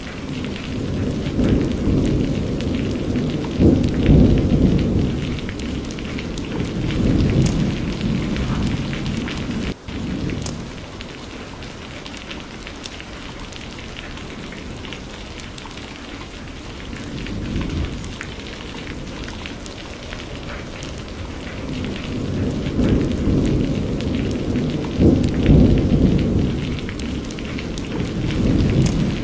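Steady rain with rolling thunder: long low rumbles swell and fade over several seconds, one through the first third and another building near the end, under a constant hiss of rainfall.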